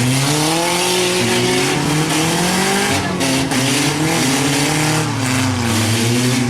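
Compact truck and van engines revving hard, their pitch climbing and dropping again several times, over a steady rushing noise.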